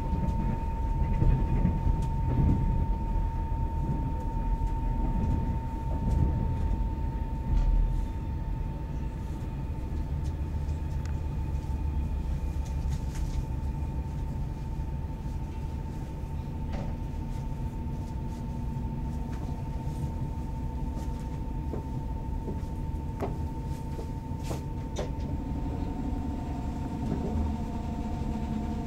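Electric passenger train heard from inside the carriage, slowing as it pulls into a station: a steady low rumble of wheels on rails under a thin high whine, with scattered clicks over rail joints and points. Several new lower steady tones join near the end.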